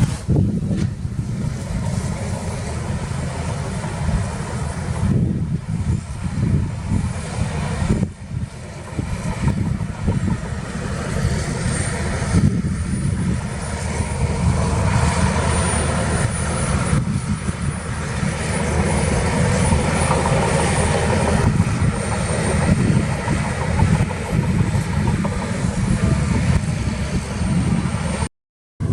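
Heavy diesel earthmoving machinery working: a deep engine running steadily, its load rising and falling, with a thin high whine over it through the second half. The sound drops out briefly near the end.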